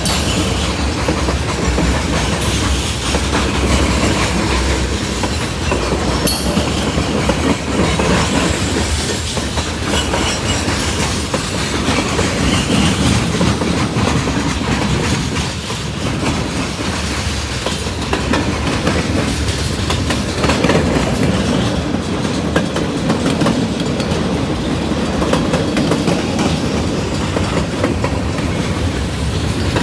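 A train rolling past without a break, its wheels clacking over the rail joints.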